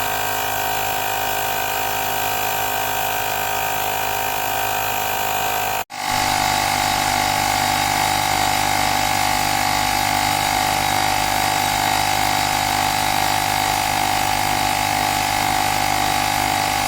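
Portable electric tyre pump's small compressor motor running with a steady whine. It cuts out for an instant about six seconds in, then carries on a little louder.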